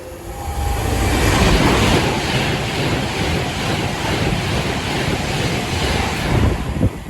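A train passing: a loud rush of wheel and air noise that builds over the first second or two, holds steady, and drops off sharply near the end.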